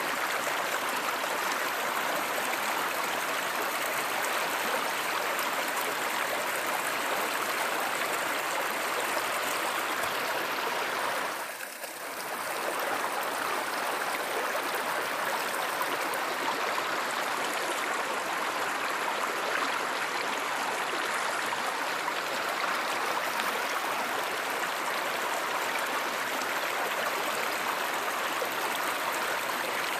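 Steady rush of a flowing stream, dipping briefly in level about twelve seconds in.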